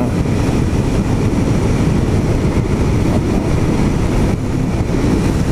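Honda XR650L dual-sport motorcycle riding along: steady wind rush mixed with the running of its single-cylinder four-stroke engine.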